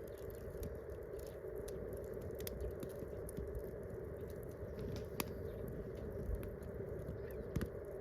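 Wood campfire crackling: scattered sharp snaps and pops over a steady fire noise, with a couple of louder pops in the second half.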